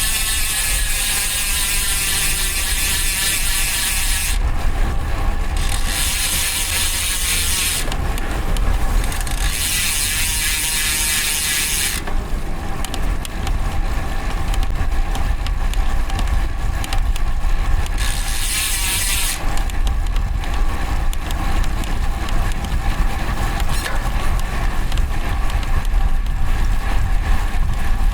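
Road bike's DT Swiss rear-hub ratchet freewheel buzzing as the rider coasts, in several stretches of a few seconds that stop when pedalling resumes. Steady wind and road rumble on the bike-mounted microphone run underneath.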